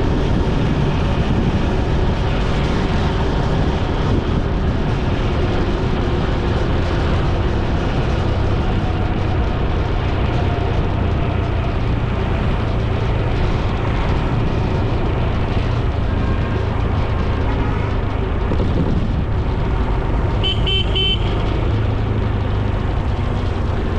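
Steady engine and wind noise of a motorcycle ride on the road. About 20 seconds in, a vehicle horn gives a quick run of short, high-pitched beeps.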